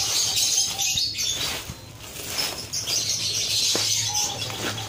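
A colony of lovebirds chirping in a busy high chatter, with wings flapping and a few short calls standing out.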